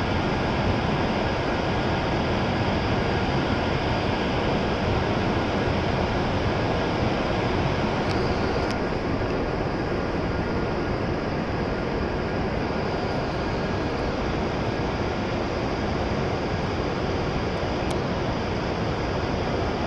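E7-series Shinkansen standing at the platform, its onboard blowers and air conditioning giving a steady whirring hum that does not change.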